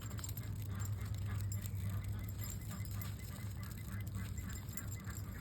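Ducks quacking in short, repeated calls, over a steady low hum.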